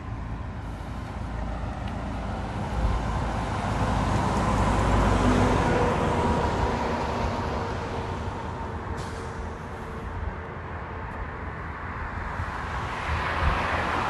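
Road traffic: a vehicle passing by on the road, building to its loudest about five seconds in and then fading, with another vehicle approaching near the end.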